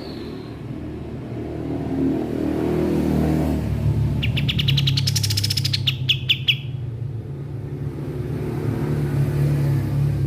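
Kapas tembak songbird singing one fast, rapid-fire trill of high notes lasting about two and a half seconds, ending in a few separate notes, over a steady low rumble like traffic.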